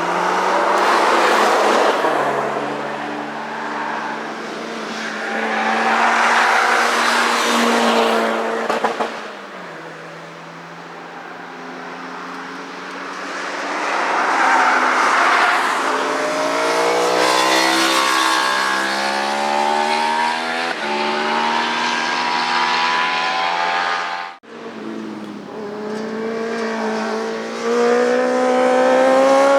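Motorcycles passing one after another at speed on a race track, their engines revving up and falling away as each goes by. The revving rises and holds near the end, broken by a sudden brief drop-out about three-quarters of the way through.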